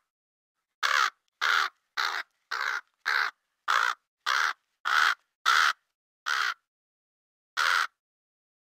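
Crow cawing: a series of about ten short caws, roughly one every 0.6 seconds, then one more after a pause near the end, with silence between calls.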